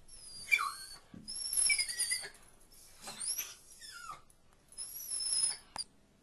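Dog whining: a series of high-pitched, wavering whines, about five in all, as the dog strains to get at another animal it wants.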